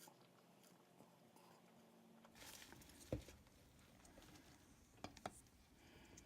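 Near silence with a few faint handling noises: a soft rustle, then one sharper tap about three seconds in and two light clicks near the end.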